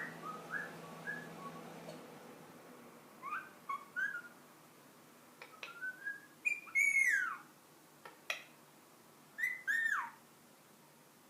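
Ringneck parakeet whistling: a run of short whistled notes, then two louder whistles that slide down in pitch near the end.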